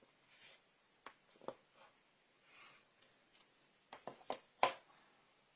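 Light clicks and taps of craft tools being handled and set down on a desk, with a few soft rustles between them; a cluster of sharper clicks comes near the end, the loudest about four and a half seconds in.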